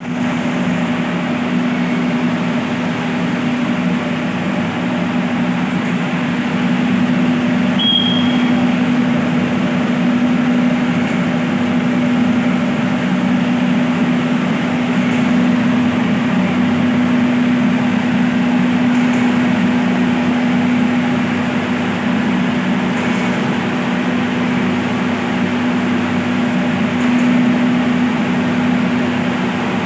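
Electric water pump motors running with a steady hum. A short high tone sounds once about eight seconds in.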